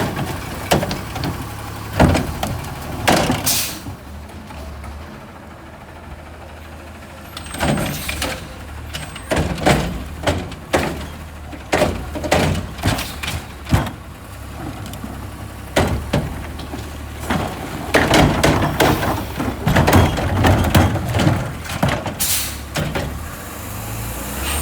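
Garbage truck engine running steadily while loud clanks and bangs come in three clusters, the metal knocks of a trash cart being lifted, shaken and slammed against the truck's hopper.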